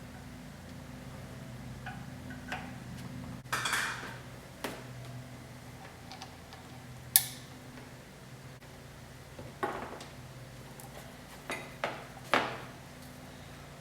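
Scattered clinks, clicks and rattles of metal hardware being handled while a subwoofer bracket is fitted, the sharpest click about seven seconds in, over a steady low hum.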